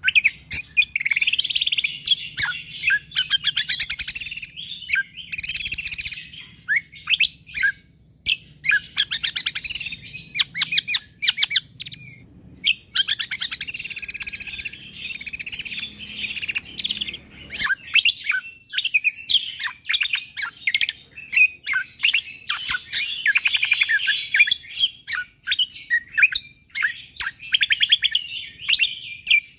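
Cucak kombo (kecial kombo) songbird singing in full song: long runs of rapid, tightly packed high chattering notes, broken by short pauses between phrases.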